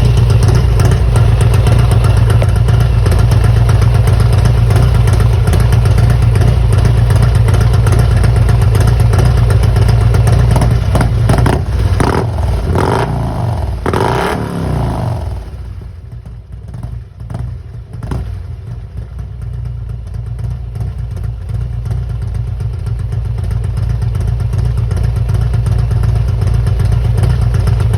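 Harley-Davidson Road Glide's 128-cubic-inch Milwaukee-Eight V-twin running through a Rinehart exhaust. It runs loud and steady, is revved a few times about halfway through, then drops back to a quieter idle that slowly grows louder toward the end.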